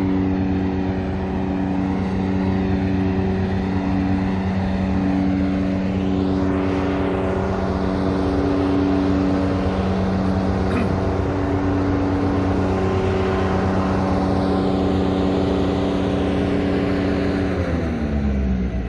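Road traffic with a vehicle engine running steadily at one pitch; near the end the engine's pitch drops away.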